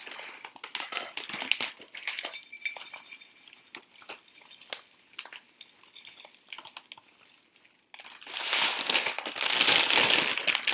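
Bird seed being sprinkled onto a plate: scattered light ticks of seeds landing, then a louder, denser rustle and patter about eight seconds in.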